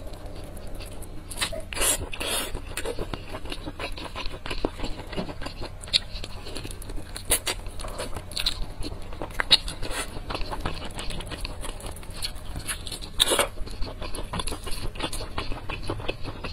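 Close-up crunching and chewing of crispy-coated fried chicken: many small sharp crackles, with a few louder crunches at bites, about two seconds in and again near the thirteen-second mark.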